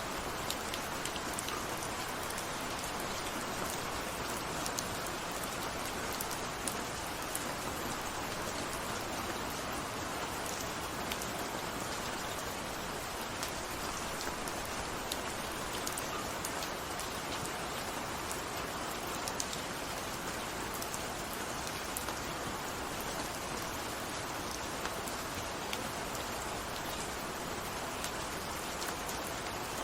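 Steady rain falling, an even hiss of water with scattered drops ticking against a surface.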